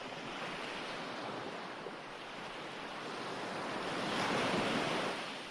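Recorded ocean waves washing onto a shore, a steady rush of surf that swells to a louder crest about four seconds in and then ebbs.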